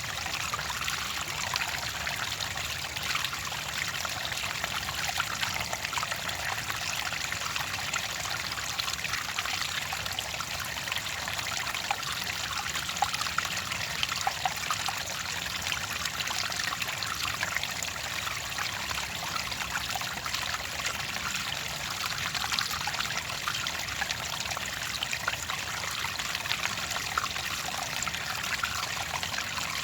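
Clear water trickling and splashing steadily in a small stream, a continuous even burble of many tiny droplets.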